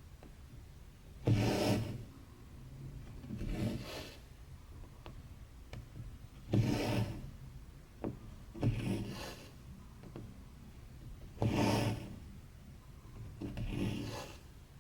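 Embroidery thread being drawn through cross-stitch fabric, a rasping swish about every two and a half seconds, six pulls in all, with a few faint ticks between them.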